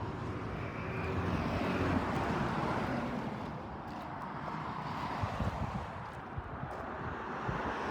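A vehicle going by on the road, a steady rushing noise that swells to its loudest about two seconds in and then slowly fades.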